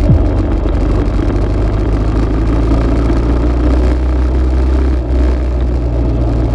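Dirt bike engine running steadily under way, a loud low rumble with rushing noise over it, and a quick drop in revs right at the start.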